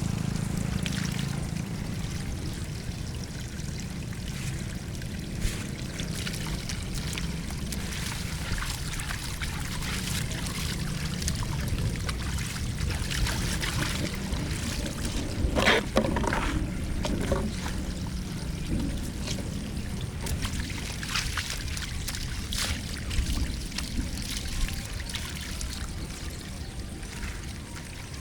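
Water pouring and trickling steadily as it drains through a cleared blockage, with scattered small splashes and one louder sudden splash or knock about sixteen seconds in.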